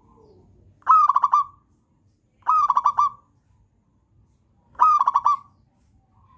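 Zebra dove (perkutut) singing: three short phrases, each a quick run of staccato coos, coming about one and a half to two seconds apart.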